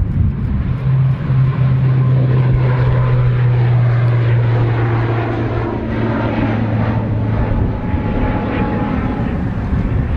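ATR 72-500 turboprop at takeoff: its propellers give a steady low drone that fades about eight seconds in, over a low rumble.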